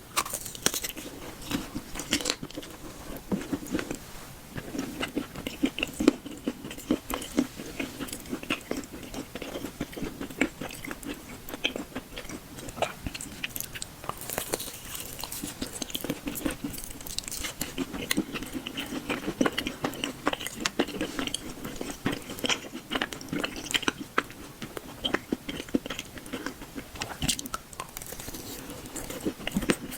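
A person chewing and biting food close to the microphone: a dense, continuous run of small clicking mouth sounds.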